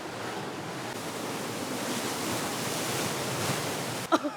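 Pacific surf rushing into a narrow channel between the rocks by the tide pools, a steady wash of churning water that swells over the first few seconds. A brief sharp sound cuts in near the end.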